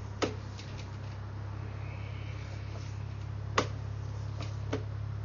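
Steady low hum of a sewer inspection camera rig, with a few sharp knocks, four in all, as the camera is worked along the pipe.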